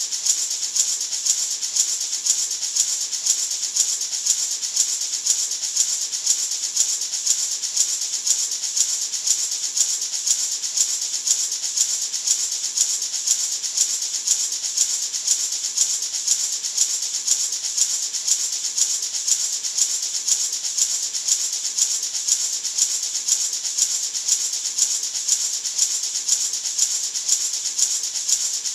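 Gourd maraca shaken in a steady, even rhythm, about two shakes a second: a continuous bright rattle of seeds inside the dried gourd, used as white noise.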